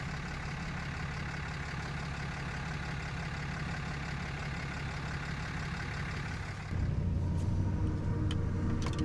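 Steady vehicle engine and road noise with a low hum. About two-thirds of the way through it cuts off suddenly and music with long held tones starts.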